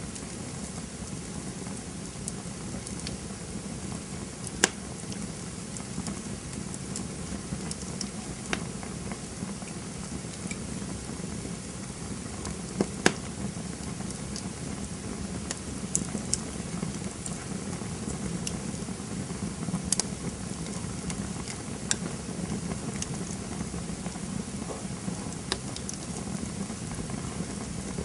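Campfire burning with a steady low rumble of flames and irregular sharp crackles and pops of burning wood, two of them louder, about four and thirteen seconds in.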